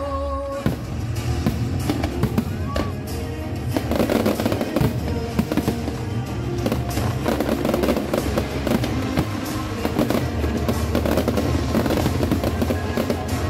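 Aerial fireworks bursting and crackling in rapid succession over loud music from the show's sound system; the crackling grows denser about four seconds in.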